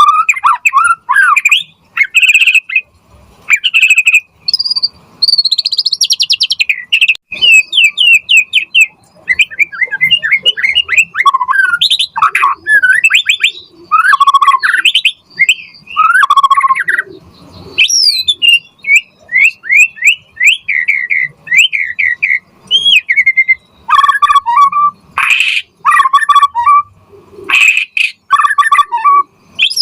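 White-rumped shama (murai batu) singing a long, varied song: runs of quick sliding whistled notes and trills, broken by loud harsh rasping phrases, with only short pauses between them.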